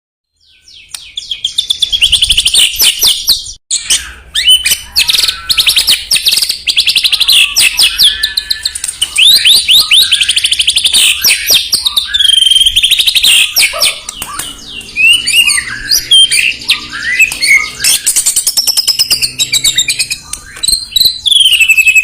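White-rumped shama (murai batu) singing a fast, varied song of whistles, chirps and trills. It fades in over the first couple of seconds, breaks off briefly just before four seconds in, then runs on loud and continuous until it cuts off abruptly.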